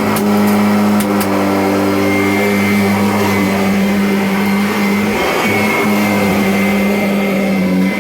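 Kirby Avalir upright vacuum cleaner running with a steady, loud motor hum, with a few sharp clicks in the first second and a brief change in the hum about five seconds in.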